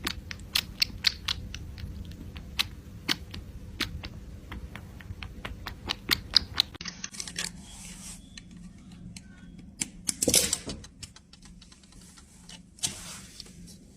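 Irregular sharp clicks and taps, several a second for about seven seconds, then fewer, with a brief rustling burst about ten seconds in.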